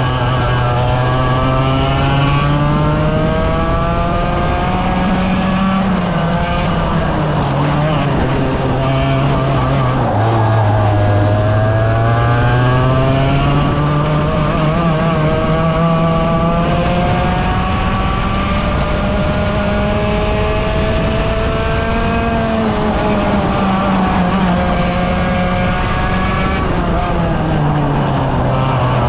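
100cc racing kart engine at full race pace, its pitch climbing in long sweeps as it accelerates and dropping sharply when it comes off the throttle, about ten seconds in and again near the end.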